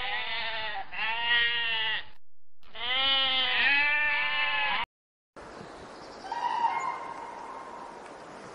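Domestic sheep bleating, several wavering calls over the first five seconds. After a sudden cut comes a steady hiss with one short, flat-pitched call about six and a half seconds in.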